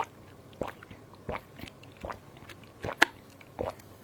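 Close-up mouth sounds while tasting a sweet-sour fruit drink: about eight short, separate smacks, clicks and swallows, spaced roughly half a second apart.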